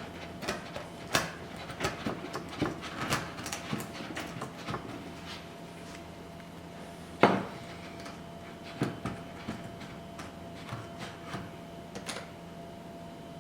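Irregular light wooden knocks and clicks of hand woodworking tools and wooden workpieces being handled on a bench, with one sharp, louder knock about seven seconds in.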